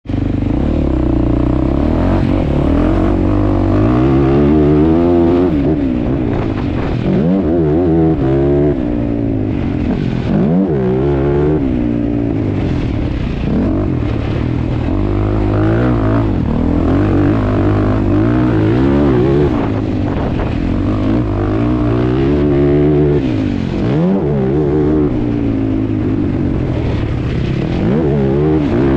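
ATV engine being ridden hard, its revs climbing and dropping over and over every second or two, with several sharp drops in pitch before it revs up again.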